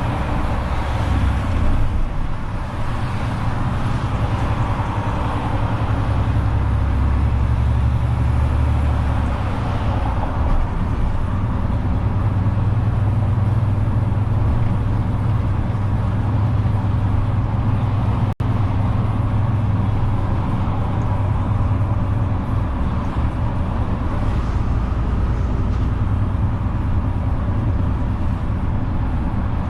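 Renault truck's engine running steadily as the truck drives, with road and traffic noise. The sound cuts out for an instant about two-thirds of the way through.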